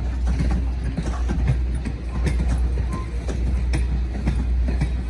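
Passenger train cars rolling past, their wheels giving irregular clicks and knocks on the rails over a steady low rumble.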